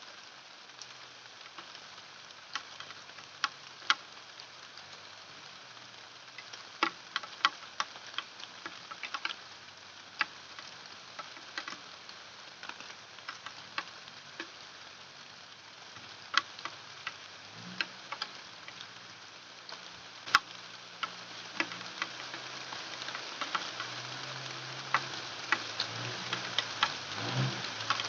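Rain falling steadily, with scattered sharp drops ticking close by. In the second half a low engine hum comes in and grows louder.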